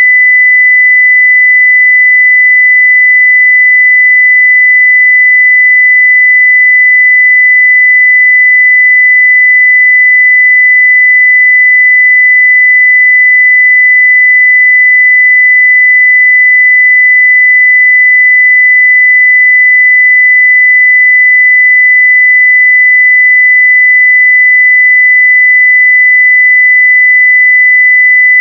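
Continuous 2 kHz sine-wave test tone at full level, a single steady pitch with no change.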